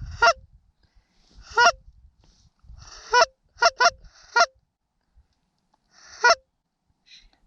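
Short, loud Canada goose honks, seven in all, with a quick run of four in the middle.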